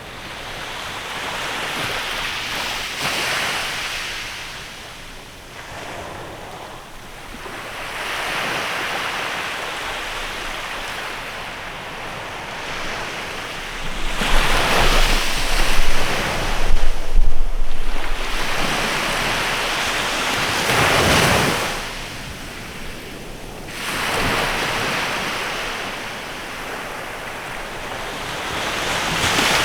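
Sea waves breaking and washing up a beach in a bay, in surges that swell and fade every few seconds, the strongest coming about halfway through. Wind rumbles on the microphone during the loudest stretch.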